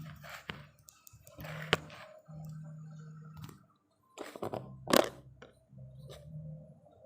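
Workbench repair noise on a CRT television chassis: clicks, scrapes and knocks of tools, with a low hum that comes and goes and a sharp snap about five seconds in.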